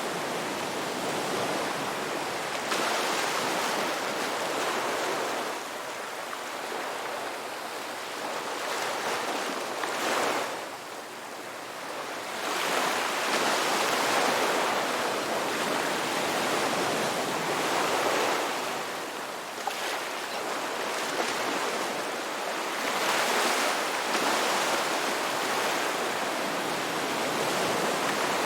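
Ocean surf: waves breaking and washing ashore in a continuous rush of water that swells and eases every few seconds.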